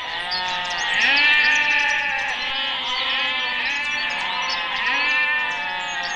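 A herd of goats bleating all at once, many overlapping calls with no pause, a few louder ones standing out about a second in, near the middle and near the end.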